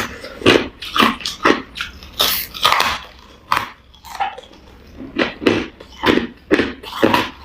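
Hard, clear crushed ice being bitten and chewed close to the microphone: loud, sharp crunches about two a second, with a brief lull around the middle.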